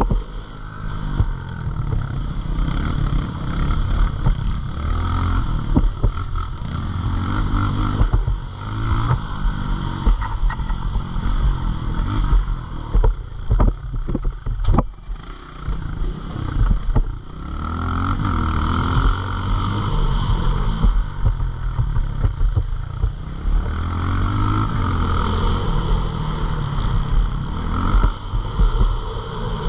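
Pit bike's small single-cylinder four-stroke engine under hard riding, its pitch climbing and falling back over and over as the throttle is opened and shut through the gears. The engine drops off briefly about halfway through, with a few sharp clicks, before it pulls up again.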